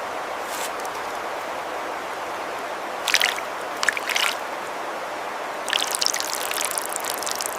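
Stream water running steadily, with splashing about three seconds in and again near the end.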